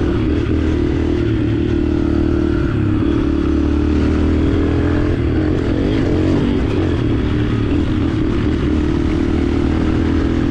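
125cc four-stroke dirt bike engine running steadily under way, its pitch wavering a little with the throttle.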